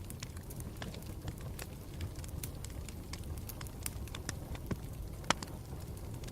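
Campfire burning with a steady low rumble and scattered sharp crackles and pops, one louder pop about five seconds in.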